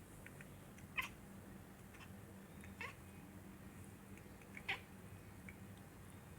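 Domestic cat giving three short meows, about two seconds apart, over a low steady hum.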